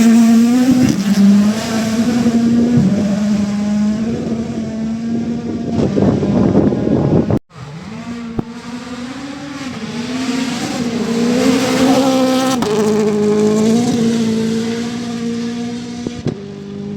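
Rally car engines at high revs, dipping and climbing through gear changes as the cars pass, with a noisy rush about six seconds in. A hard cut about seven and a half seconds in leads to another car's engine rising and falling through its gears.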